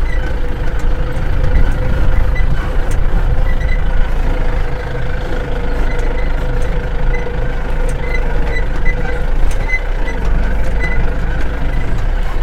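Safari vehicle driving over a rough track: a steady engine drone and low rumble, with short high squeaks or chirps coming and going.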